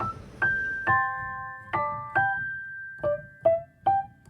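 Piano music: a slow melody of about eight struck notes and chords, each ringing out and fading.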